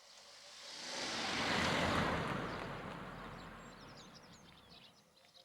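A rush of noise, like a vehicle passing by, swells to a peak about two seconds in and fades away. Faint bird chirps sound high above it.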